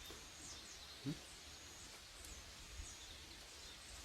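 Quiet outdoor ambience with a few faint, brief high bird chirps, and one short low sound about a second in.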